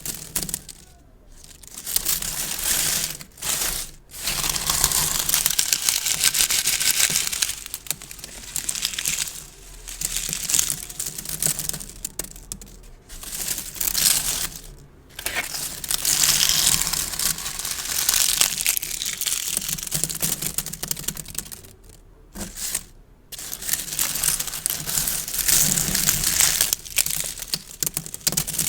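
Gift bows crinkling as they are squeezed and handled close to the microphone, in crackly stretches of a few seconds with short pauses between.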